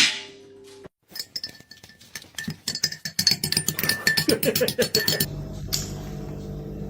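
A rapid, irregular run of light clinks and taps lasting about four seconds, stopping suddenly about five seconds in.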